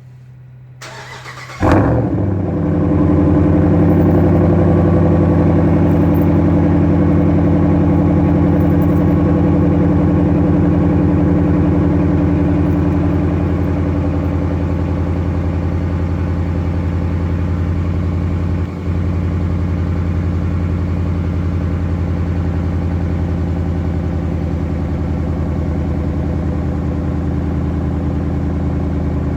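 2013 Ram 1500's 5.7-litre Hemi V8 cold-starting in sub-30-degree weather, exhaust running through a muffler delete with the stock resonators kept. The starter cranks briefly about a second in, then the engine catches and runs at a fast cold idle. The idle eases down a little around the middle.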